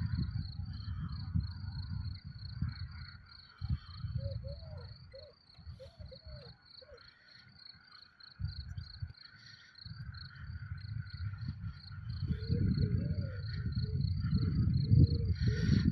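Crickets chirping in a steady, evenly repeating high pulse several times a second, over a low rumbling noise that comes and goes and grows louder near the end.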